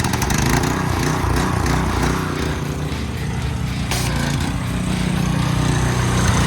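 Fox-body Ford Mustang engine running with a loud, deep exhaust that sounds just like a dump truck, its revs rising and falling a few times before settling into a steady idle.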